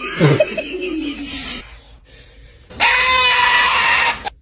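A parrot vocalizing: wavering, gliding calls, then about halfway through one loud, harsh screech lasting about a second and a half.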